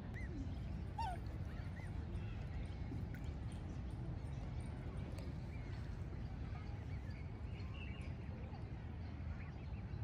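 A few faint, short bird calls, chirps and little falling whistles, from waterbirds at a pond, scattered over a steady low rumble.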